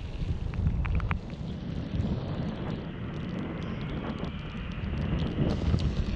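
Wind buffeting the microphone of a moving motorcycle, over engine and road noise, with a few sharp ticks about a second in.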